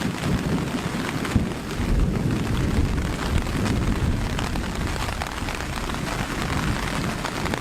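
Light rain falling with low rolling thunder rumbling underneath, swelling about two seconds in, as a thunderstorm begins.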